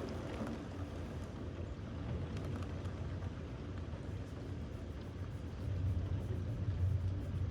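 A low, steady rumble that swells louder about six seconds in.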